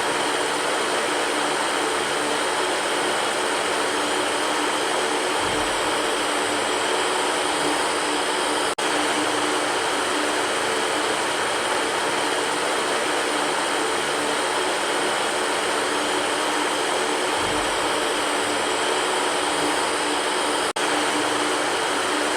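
Electric fan running steadily: an even rush of air with a faint hum underneath. Twice, about twelve seconds apart, the sound dips for an instant where the recording loops.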